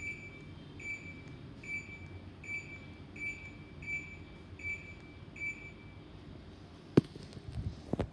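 Samsung mini-split air conditioner beeping: eight short beeps at one steady pitch, evenly spaced a little under a second apart, over a low steady hum. A sharp click follows near the end, the loudest sound here, with a few lighter knocks after it.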